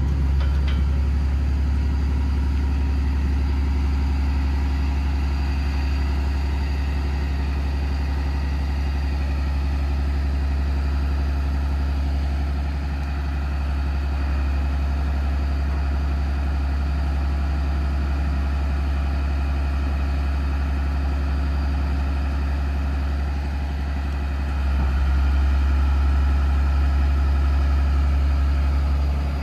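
Paccar PX-6 6.7-litre diesel engine of a Kenworth T370 running at a slightly raised idle, a steady low hum, while it drives the PTO hydraulics for the crane. The engine note dips briefly around the middle and grows louder for the last few seconds.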